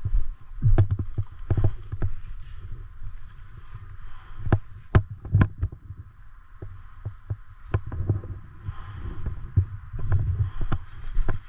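Irregular low thuds of a person walking or moving, with rustling of clothing and gear rubbing close to the microphone, and a few sharp clicks or snaps about halfway through.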